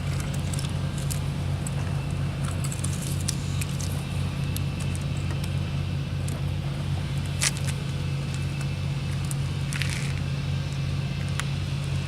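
Steady low engine hum with an even pulsing beat, like an idling engine close by, with a few light sharp clicks now and then.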